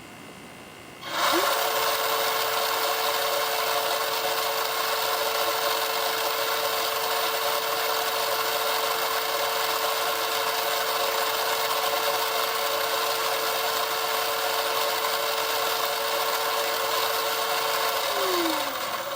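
Kyosho Blizzard FR's stock electric motor and gearbox free-running with no load, spinning the drive sprocket. A whine with gear noise rises quickly to a steady pitch about a second in, holds, and then winds down near the end.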